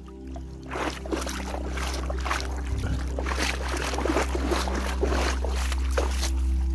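Water splashing and trickling in irregular bursts over a steady low hum.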